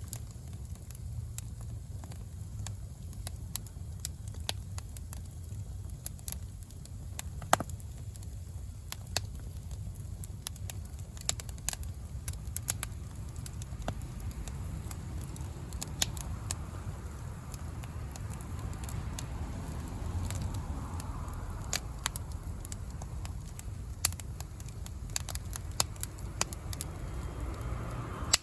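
Bonfire of firewood, bamboo shoots and dry grass burning, crackling with scattered sharp pops over a low steady rumble.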